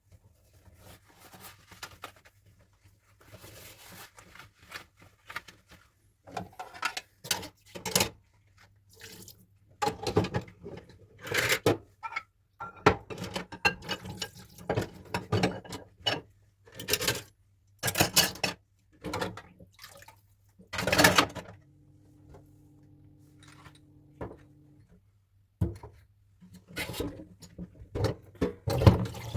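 Dishes and kitchenware being handled in a sink: a string of clinks, knocks and clatters of uneven loudness over a faint low hum.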